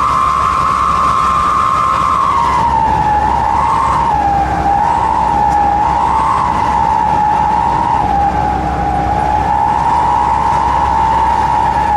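A 'wolf' whistle exhaust (knalpot serigala) giving a loud, siren-like howling whistle over the engine's rumble. The whistle holds one pitch, drops a little about two seconds in, and then wavers up and down.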